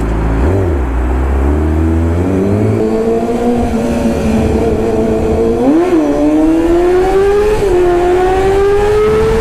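Sport motorcycle engine accelerating under load, its pitch climbing steadily and dropping briefly twice as it shifts up through the gears.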